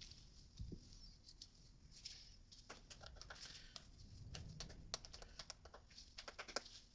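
Faint, scattered small clicks and light taps of injector parts being handled and worked into the injector ports of a diesel engine.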